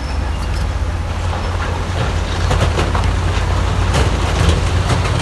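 Heavy diesel earthmoving machinery running steadily with a deep engine drone, with several sharp clanks and knocks in the second half, the loudest about four seconds in.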